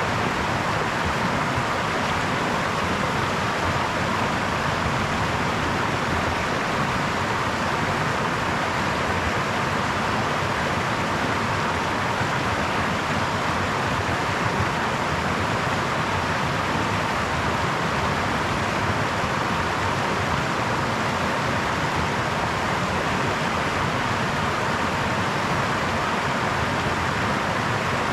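A brook's water running over stones in a steady rushing babble that does not change in level.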